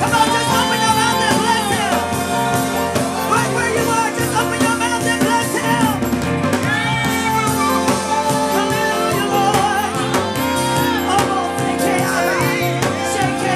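Live gospel praise and worship music: a band with drums plays under sung vocal runs that slide and bend in pitch.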